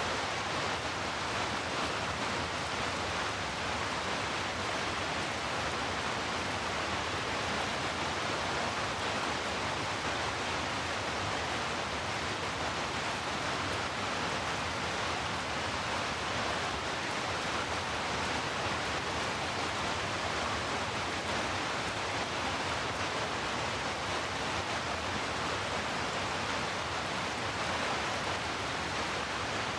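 Heavy rain as a sleep-noise track: a steady, even hiss of rainfall with no single drops or thunder standing out.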